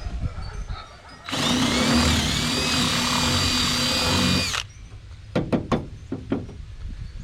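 Power drill boring a hole through a wooden board with a large bit, running for about three seconds from just over a second in, its pitch dipping slightly at first then holding steady. A few light knocks follow after it stops.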